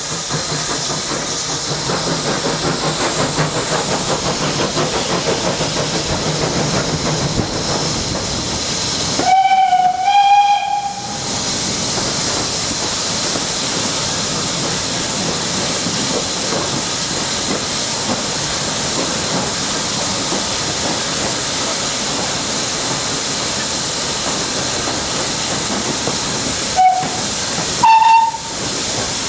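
Steam locomotive blowing off a steady hiss of steam. Its whistle sounds a blast of about a second and a half that steps up in pitch partway through, then two short blasts near the end.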